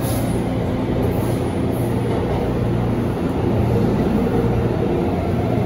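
MTR Tung Chung line A-train electric multiple unit running along the line, heard inside the passenger car: a steady rumble of running noise with a low hum.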